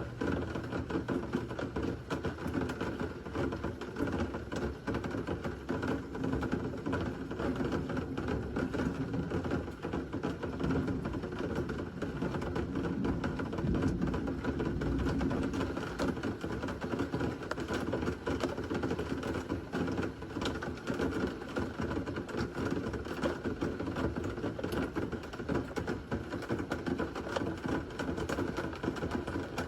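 Thunderstorm rain falling steadily, a dense, unbroken run of fine drop hits on a hard surface.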